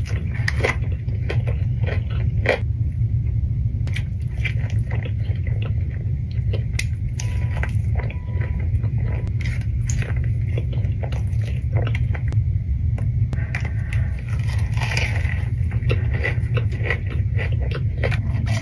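Close-miked eating of crunchy food: many crisp bites and crackling chews, irregular and constant, over a steady low rumble.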